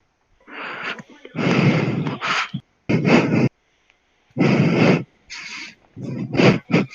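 Heavy, rasping breathing: a string of loud, noisy breaths and snorts, each up to about a second long, with short pauses between them.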